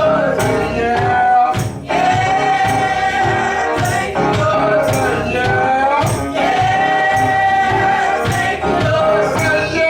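Gospel worship music: voices singing long, sliding notes over a steady beat with band accompaniment and tambourine-like percussion.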